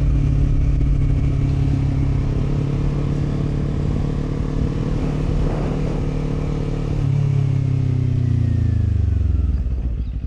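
Kawasaki Z400 parallel-twin engine running steadily under light throttle. About eight seconds in, the revs fall away smoothly as the bike slows, settling to a low, even beat near idle.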